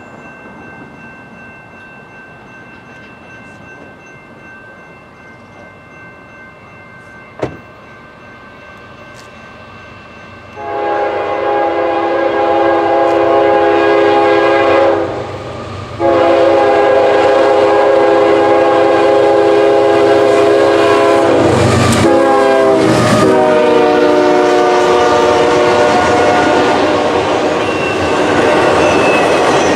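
Freight locomotive's multi-chime air horn. It starts loud about ten seconds in, breaks briefly, then sounds again in a long blast whose chord drops in pitch about two-thirds of the way through as the locomotive passes close by. Under the horn the train runs by with rumble and wheel clatter.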